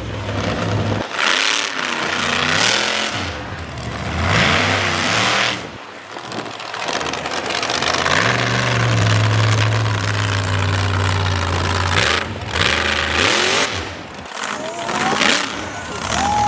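Monster truck engine revving hard, the pitch rising and falling several times, then held steady for a few seconds near the middle before more revs.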